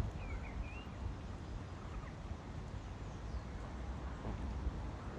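A few short bird chirps in the first second, over a steady low rumble.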